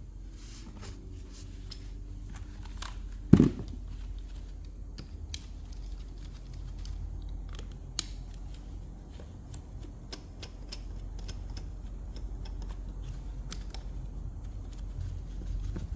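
Scattered light clicks and taps of parts and hand tools being handled, with one loud knock about three and a half seconds in, over a steady low hum.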